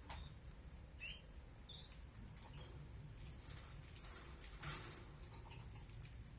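Faint short chirps from small pet birds, a few single calls in the first couple of seconds, with soft rustles and light taps after them.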